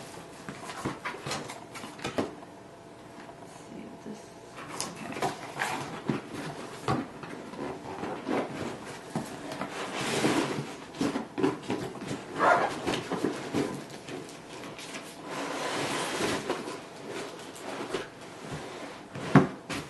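Cardboard box and packaging being handled and pulled open: irregular rustling and scraping with scattered knocks and clicks.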